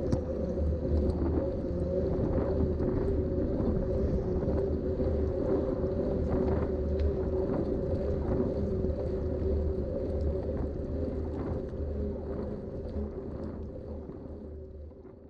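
Specialized Rockhopper 29" mountain bike rolling along: a steady hum from its Schwalbe tyres with road and wind noise and scattered small rattles and clicks as it goes over bumps. The sound fades out near the end.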